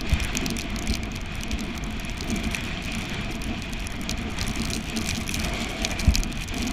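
Steady noise of a bicycle being ridden in the rain, from tyres on wet road and rain, with irregular low thumps and one stronger thump about six seconds in.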